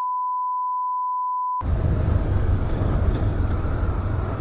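A steady 1 kHz censor bleep over a cut-out voice, stopping abruptly about one and a half seconds in. It is followed by motorcycle riding noise: wind buffeting and deep road and engine rumble.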